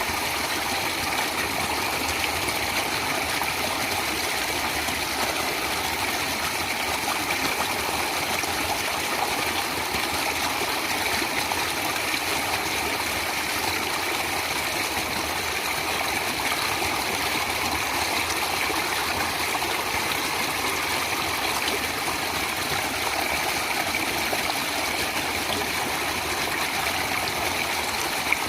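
Natural flowing water running steadily, an even rushing without breaks.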